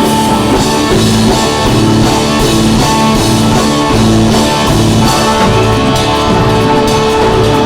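Live rock band playing: drum kit and a rhythmic bass line under guitar, with long held organ notes that shift to a new chord about five seconds in.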